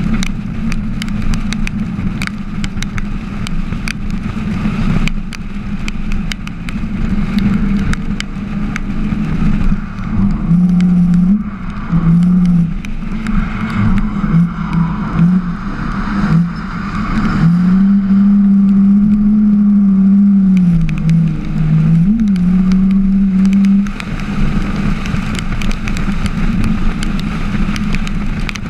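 Drift car engine heard onboard, running hard; from about ten seconds in the revs rise and fall again and again with throttle changes through the drift, with sharp crackles throughout.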